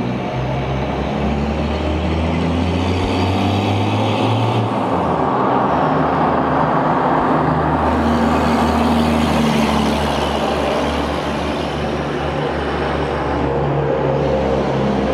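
Turbo-diesel engine of a 60 Series Land Cruiser, running a fresh TD05 16G turbo, under way with a steady low drone. The engine gets somewhat louder and busier from about five seconds in, then eases a little near the end.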